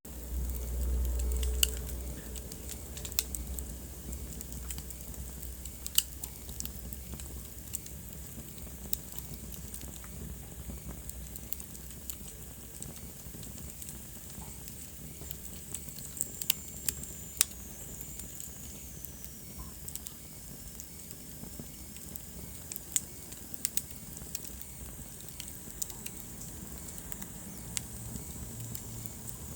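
Wood fire crackling in a fireplace: sharp, irregular pops over a soft steady hiss, with a low rumble in the first couple of seconds and a faint high whistle that slides down in pitch about halfway through.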